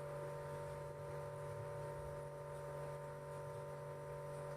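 Steady electrical hum made of several fixed tones over faint hiss.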